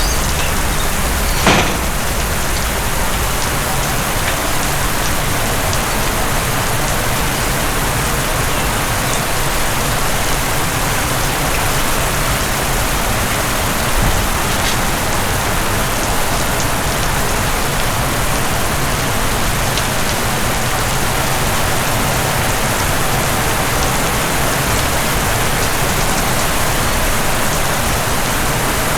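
Heavy rain falling steadily, a dense, even hiss of rain on surfaces. There is one sharp knock about a second and a half in.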